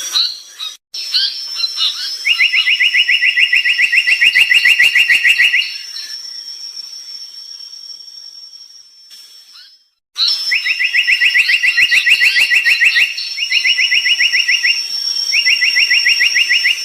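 Tali pocong bird singing in four rapid, evenly pulsed trills, each one to three seconds long, with a pause of several seconds about halfway through. Short higher chirps and a steady high whine run alongside.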